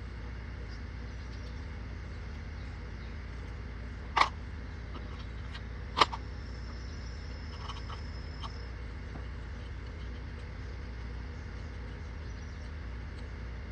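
Two sharp knocks about two seconds apart, hand tools striking metal while loosening the nuts on a Kubota M62 loader control valve, over a steady low hum.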